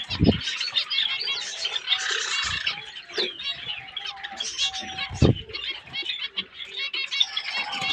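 A flock of aviary finches calling and chirping continuously, with many short high chirps and some longer nasal beeping calls. Two brief low thumps come just after the start and about five seconds in.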